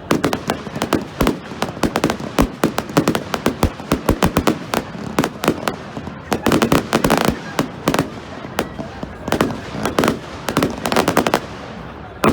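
Fireworks going off in rapid, irregular succession: a dense run of bangs and crackling pops, thickening into busier clusters around the middle and again near the end.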